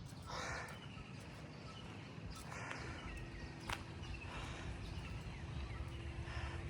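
Outdoor ambience: a low rumble with a few soft scuffs and clicks, faint short chirps, and a faint steady hum that starts about three seconds in.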